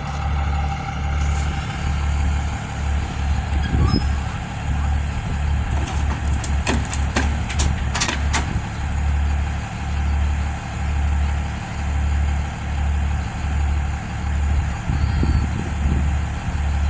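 Kubota excavator's diesel engine running, with a low hum that throbs about once a second. A quick run of sharp clicks comes about six to eight seconds in.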